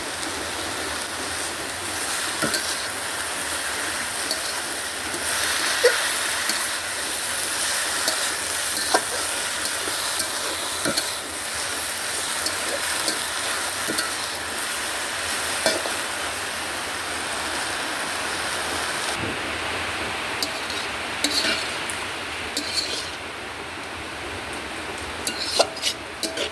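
Food sizzling as it fries in a pan, with a steady hiss and scattered clacks and knocks of a utensil stirring it against the pan.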